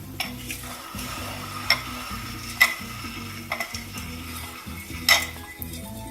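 A metal fork stirring potassium hydroxide solution, with four sharp clinks against the container and a faint hiss from the lye heating the water as it dissolves.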